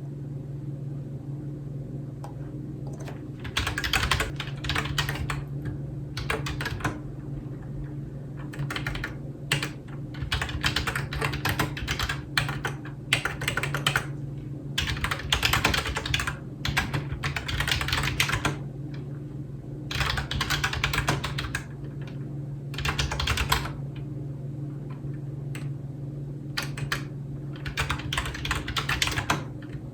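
Typing on a computer keyboard: runs of rapid clacking keystrokes broken by short pauses, over a steady low hum.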